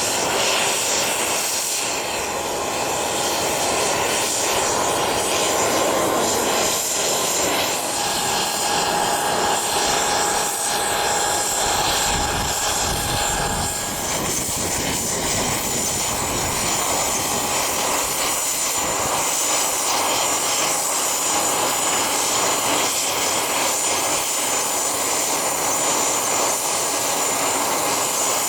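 Engines of a fixed-wing business aircraft running steadily on the ground, a continuous wash of engine noise with a thin high whine held throughout.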